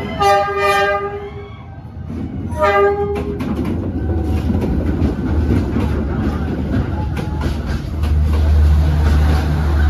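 Train horn sounding a long blast and then a short one, followed by a train passing with a rumble and rail clatter. The rumble grows louder near the end.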